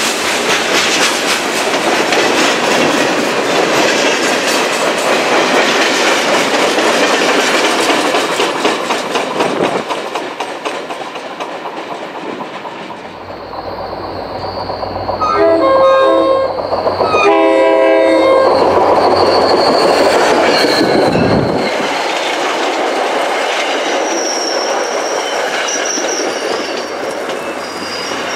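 Freight cars rolling past with a steady clickety-clack of wheels over rail joints. Then an approaching MBTA commuter train's locomotive sounds its horn in two blasts, and the train rolls past with a thin high wheel squeal near the end.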